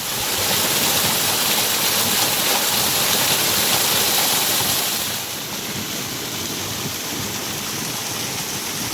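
Rushing water, a loud steady rush that comes in suddenly and eases a little about five seconds in.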